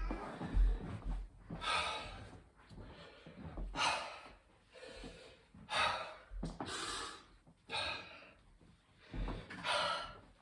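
A man breathing hard and gasping for air after a set of 25 burpees, with deep, noisy breaths about every second or two.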